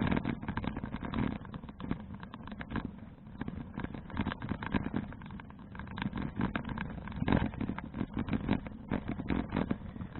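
Wind buffeting an action camera's microphone along with rattling road noise from a folding bicycle being ridden, swelling and easing in uneven gusts.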